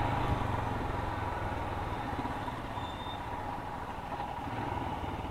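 Royal Enfield Himalayan's 411 cc single-cylinder engine running at low road speed, heard from the rider's seat. It eases off a little midway and picks up again near the end.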